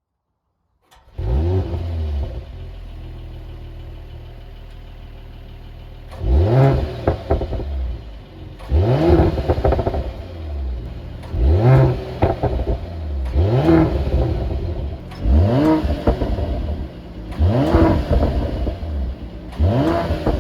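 2021 Mercedes-AMG GLE 53's 3.0-litre inline-six with the Performance Exhaust starting up about a second in with a quick flare, then settling to idle. From about six seconds in it is blipped seven times, each rev rising sharply and dropping straight back, about every two seconds.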